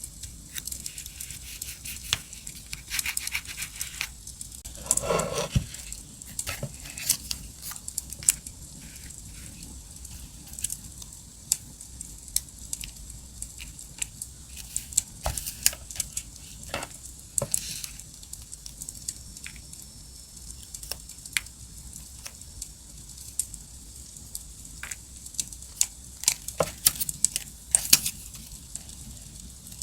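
Campfire crackling, with many sharp pops over a steady hiss, mixed with the rustling and tapping of paper and stickers being handled. A longer paper rustle comes about five seconds in.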